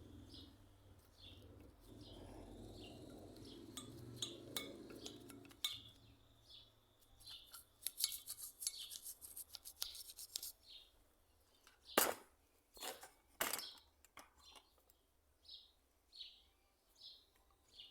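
Light metallic clinks and taps, as of small metal parts or tools being handled, with a low rubbing sound in the first few seconds and three sharper knocks about twelve to thirteen and a half seconds in. Faint bird chirps in the background.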